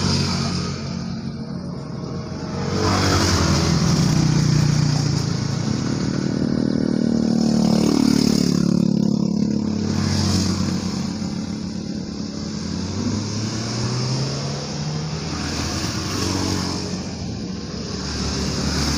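Motor vehicles passing by, their engine sound swelling and fading several times with pitch glides as they go past, over a steady high hiss.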